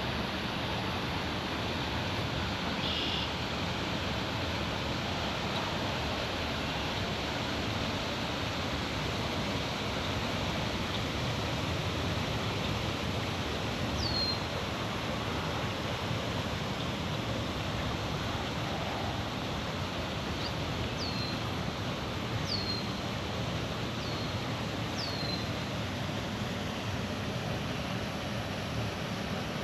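Steady rushing water at a small dam, an even roar with no let-up. From about halfway through, a bird repeats short, sharply falling whistled notes, about seven times.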